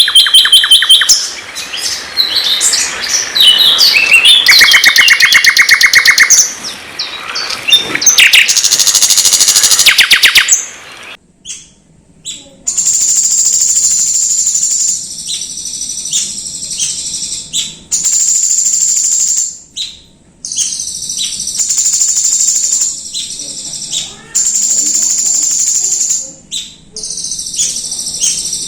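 Loud songbird song of the kind played as masteran to train a white-rumped shama. For about the first eleven seconds it runs as fast, varied trills and rapid repeated notes. After a short break it becomes a run of thin, very high whistled phrases, each a few seconds long with brief pauses between.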